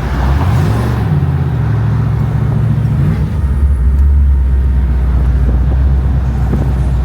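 Car engine running with a deep, loud rumble. Its pitch rises briefly about half a second in, holds, then settles to a lower steady drone about three seconds in.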